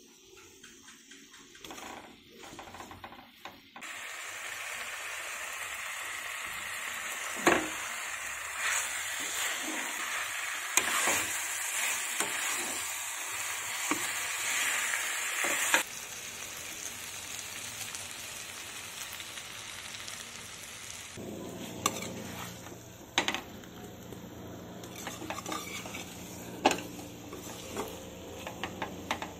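Pork curry frying in a non-stick wok: the boiled pork and masala sizzle while a steel spatula stirs them, knocking against the pan now and then. The sizzle eases about halfway through.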